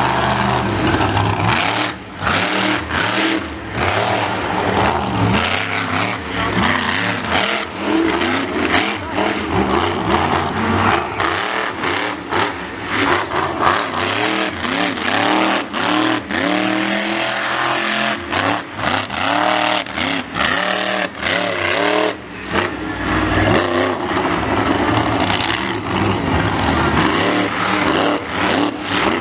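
Monster truck engine revving hard over and over, its pitch sweeping up and falling back in quick arcs, with brief drops where the throttle is let off.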